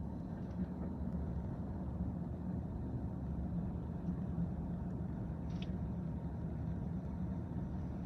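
Train rolling past, a steady low rumble with a constant hum underneath.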